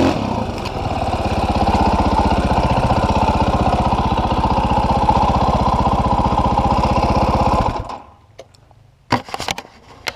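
Dirt bike engine running steadily at low revs with an even pulsing beat, then stopping abruptly about eight seconds in. A few light clicks and knocks follow.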